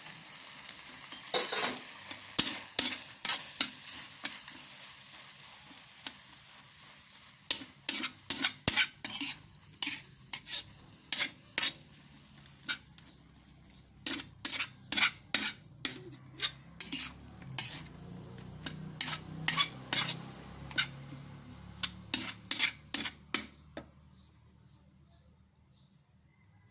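Food being stirred in a pan with a metal cooking utensil: repeated irregular clicks and scrapes against the pan, over a soft sizzle that fades in the first several seconds. The stirring stops a few seconds before the end.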